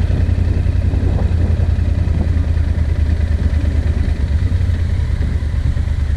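Vehicle running with a steady low rumble.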